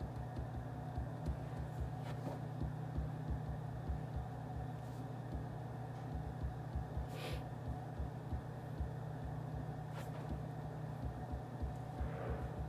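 Office room ambience: a steady low hum with a faint even hiss, broken by a few small clicks and a brief rustle about seven seconds in.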